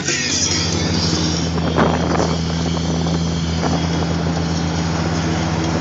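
A car engine running steadily while driving over sand, heard from inside the cabin, with constant wind and road noise.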